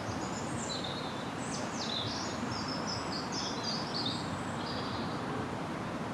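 A small bird singing a quick run of high chirps and twittering notes for about five seconds, over a steady background hiss of outdoor noise.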